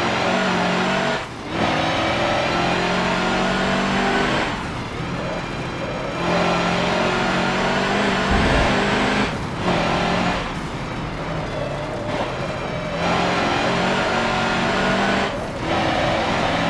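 Mercedes-Benz racing truck's turbodiesel engine pulling hard under load, its pitch climbing slowly, broken by several brief lifts or gear changes where the sound drops away before it pulls again.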